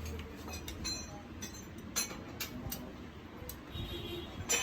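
Scattered light metallic clicks and clinks of hand tools being handled, with a sharper click near the end.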